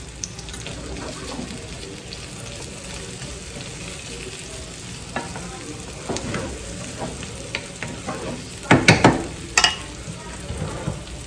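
Egg and bitter melon omelet sizzling steadily in a frying pan while a wooden spatula stirs and scrapes it. Louder scrapes and knocks of the spatula on the pan come about nine seconds in.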